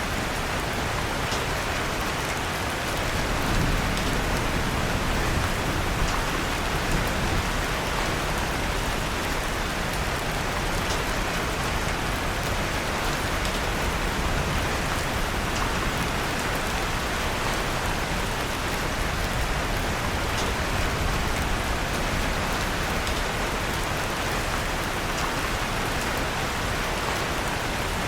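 Steady rain falling, an even hiss with scattered faint crackles from a wood fire. A low rumble swells briefly a few seconds in.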